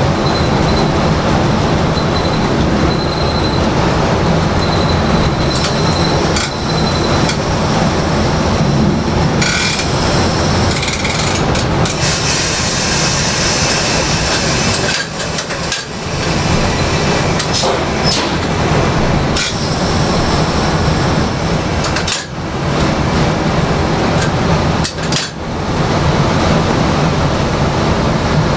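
Train running on rails: a steady low rumble with irregular clicks and knocks, and a hiss for a few seconds about twelve seconds in.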